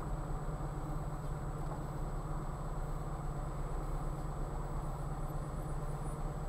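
Car engine idling at a standstill, a steady low hum heard from inside the cabin, with a faint constant high-pitched whine over it.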